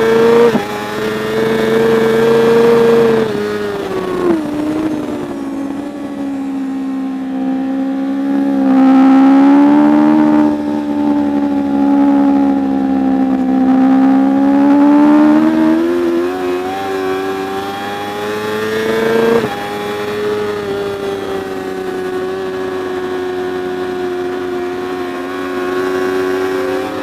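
Racing superbike engine running hard, its pitch climbing and falling with the throttle and dropping sharply at gear changes, several times.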